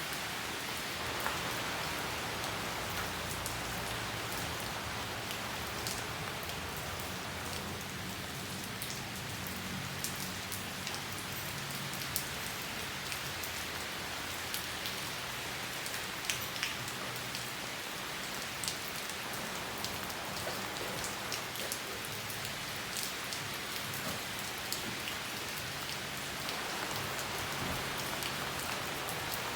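Steady rain falling on leafy green plants, with many sharp individual drop hits scattered throughout over an even hiss.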